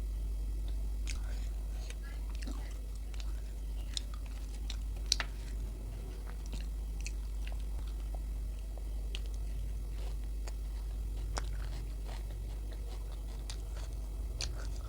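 Close-miked chewing and mouth sounds of someone eating luchi with potato curry: soft wet clicks and smacks scattered irregularly, one sharper about five seconds in, over a steady low hum.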